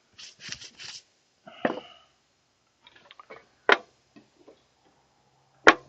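Workbench handling noises: soft rustling, then three sharp knocks about two seconds apart, as wooden pieces and tools are picked up and set down. A faint low hum comes in near the end.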